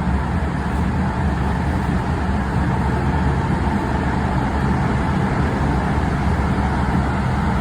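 Steady running noise heard from inside a moving Link light rail car, a non-Siemens car numbered 104A. The sound is a constant low rumble of the wheels on the rails and the train's running gear, even and unbroken.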